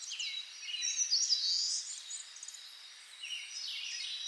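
Songbirds singing: several overlapping quick chirps and short trilling phrases, with a thin steady high tone running underneath.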